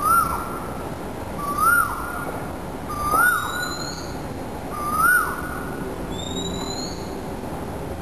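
Bird calls: a short whistled note that rises and drops, repeated four times about every second and a half. A second, higher rising whistle comes twice in the latter half, over a steady background hiss.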